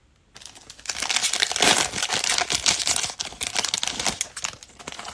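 Trading card pack wrapper crinkling and tearing as it is ripped open, starting about half a second in, with dense rapid rustling that is loudest in the middle.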